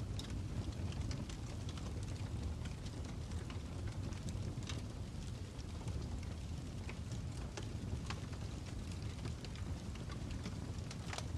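Crackling fire: a steady low rumble with sharp pops and crackles coming at irregular moments.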